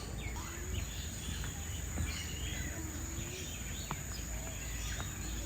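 Several birds calling at once, with many short chirps and whistles overlapping at random over a steady high-pitched whine and a low rumble.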